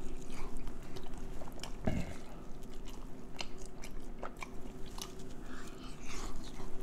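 A person chewing chicken close to the microphone, with frequent wet mouth clicks and smacks and a soft low thump about two seconds in.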